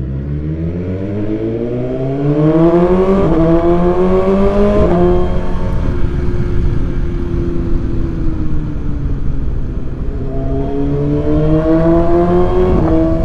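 BMW S1000XR inline-four engine through a full Akrapovic titanium exhaust, pulling hard under acceleration. The pitch climbs, breaks sharply at an upshift at about three seconds and again at about five seconds, then holds and sags slightly while cruising. It climbs once more and shifts up again near the end.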